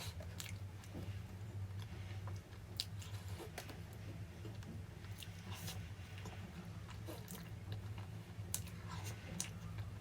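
A person chewing and biting food with crunchy mouth sounds: irregular sharp clicks scattered throughout, over a steady low hum.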